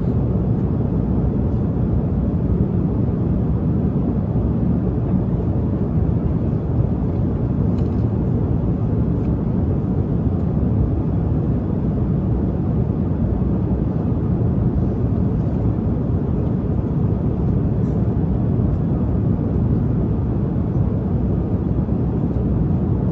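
Airliner cabin noise in flight: a steady low rumble of jet engines and airflow that holds level throughout, with a few faint ticks.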